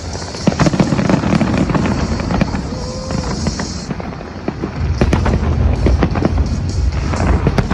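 Fireworks display bursting in quick succession: many sharp bangs and crackles over a low rumble, with music playing beneath.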